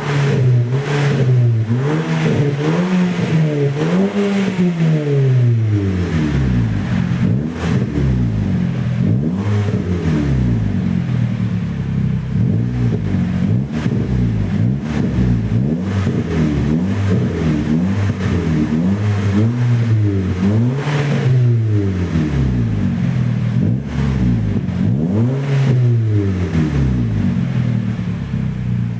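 Audi TT mk2 2.0 TFSI turbocharged four-cylinder, breathing through a custom stainless-steel exhaust silencer, revved over and over: the exhaust note rises and falls in a string of blips about every second or two.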